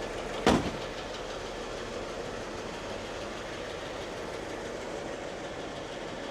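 1966 Lincoln Continental's 462 cubic inch big-block V8 idling steadily just after starting, with one sharp knock about half a second in.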